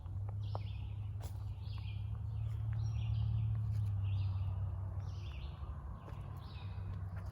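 A bird calling over and over with short, harsh notes, about three every two seconds, over a steady low rumble that swells in the middle and fades again.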